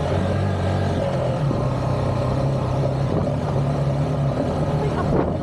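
Honda XR150's single-cylinder four-stroke engine running steadily on an off-road ride, with a low even engine note and rushing noise around it.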